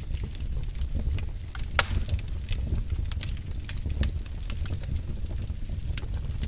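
Wood fire burning in a fireplace: irregular sharp crackles and pops over a steady low rumble of the flames, with one louder pop about two seconds in.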